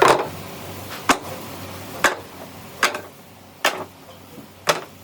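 Six sharp knocks about a second apart, the first the loudest.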